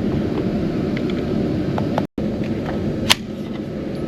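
Steady low background rumble of an indoor shooting range, with one sharp crack about three seconds in, and a brief dropout a little before that.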